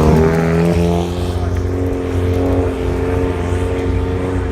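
Race car engine running hard, its pitch dropping over the first second and then holding fairly steady.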